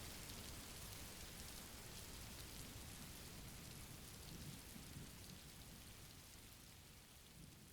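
Faint steady rain falling, an even hiss that slowly fades out.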